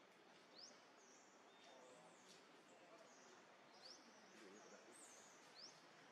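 Near silence: a faint outdoor background hiss with small birds chirping, several short, high, quickly rising chirps spaced a second or two apart.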